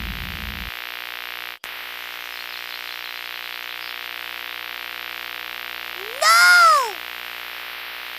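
Steady mains-type hum with hiss, cut by a brief dropout near the start. About six seconds in, one loud pitched whoop rises and then falls in under a second.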